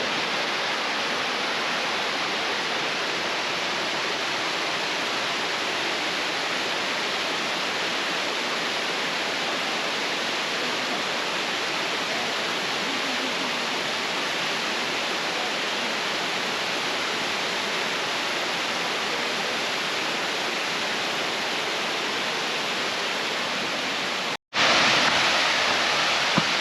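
Steady rush of falling or flowing water, continuous with no breaks in its texture; it cuts out briefly near the end and comes back a little louder.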